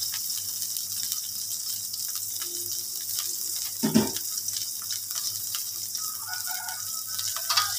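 Oil and liquid in a wok sizzling steadily with garlic, shallots and turmeric frying in it, an even high hiss. A brief voice-like sound comes about four seconds in.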